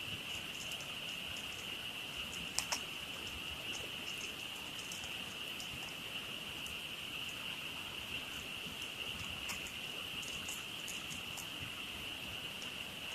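A dense frog chorus making a steady high-pitched trill, with a campfire crackling over it in scattered sharp pops, two louder pops about two and a half seconds in.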